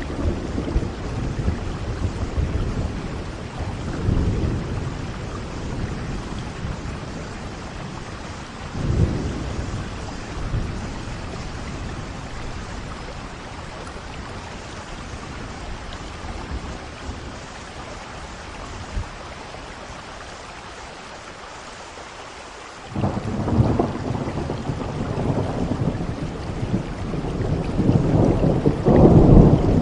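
Steady rain falling through a thunderstorm, with low rolls of thunder now and then. After a quieter stretch, a sudden thunderclap breaks about three quarters of the way in and rolls on, growing louder near the end.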